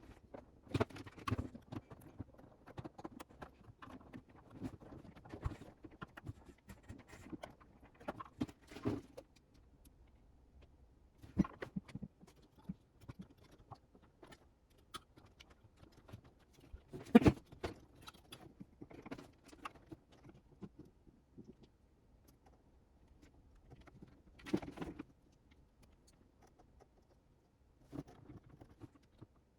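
Scattered clicks, knocks and light rattles of hands and tools working inside a refrigerator while opening up its interior panels, with the loudest knock about halfway through. The fridge is switched off, so no compressor or fan runs.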